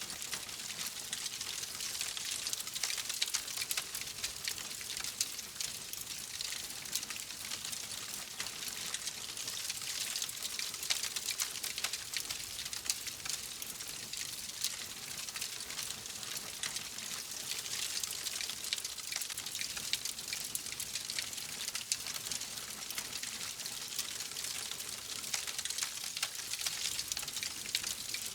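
Wood fire crackling steadily: a dense stream of small pops and snaps over a hissing bed.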